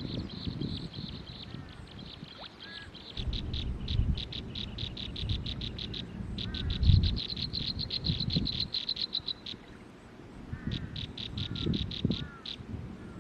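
Forest wildlife calls: a fast, even, high-pitched pulsing trill that comes in runs, starting and stopping, with a few short chirps. Low rumbling knocks come and go underneath, the loudest about seven seconds in.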